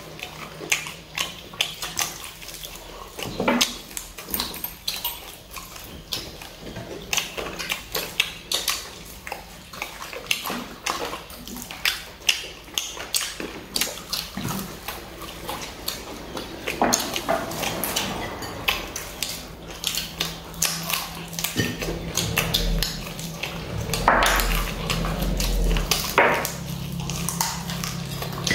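People chewing and smacking their lips as they eat fried chicken wings, a quick, uneven run of mouth clicks and smacks. A low steady hum comes in about two-thirds of the way through.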